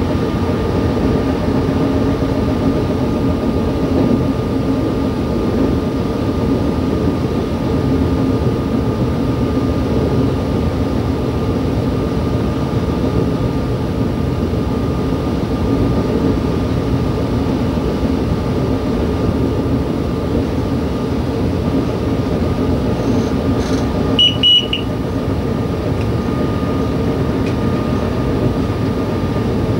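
Y2 diesel multiple-unit train heard from the driver's cab, running steadily along the track: engine drone and rail running noise, with a steady high whine. A short high beep sounds about three-quarters of the way through.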